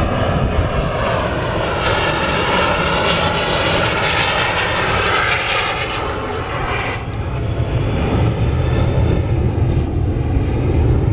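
The four turbofan engines of a USAF C-17 Globemaster III run loud as it flies past, with a high whine over the engine noise that cuts off sharply about seven seconds in, leaving a low rumble.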